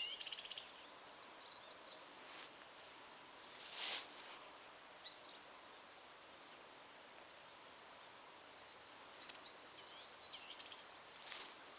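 Faint birdsong: short high whistled and trilled phrases, a trill right at the start and more phrases about nine to ten seconds in, over a quiet steady hiss. Brief rustling noises cut in twice early on, the louder about four seconds in, and once more near the end.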